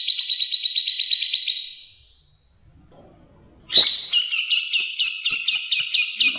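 White-rumped shama (murai batu) singing fast, evenly pulsed high trills, about nine notes a second. The first trill fades out, and after a short pause and a sharp click a second trill starts.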